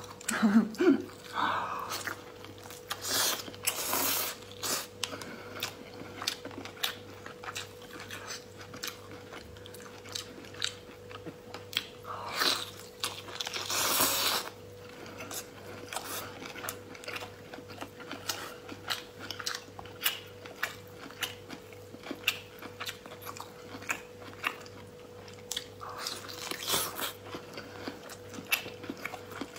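Close-miked chewing of cooked lobster meat dipped in sauce: wet mouth clicks and smacks all through, with a few longer, louder stretches of eating noise around three to four seconds in and again about twelve to fourteen seconds in. A faint steady hum runs underneath.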